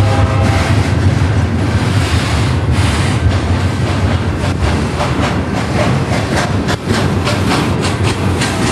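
Double-stack intermodal container train rolling past: a steady rumble of the well cars with the clickety-clack of wheels over rail joints, the clicks sharper and more regular in the second half.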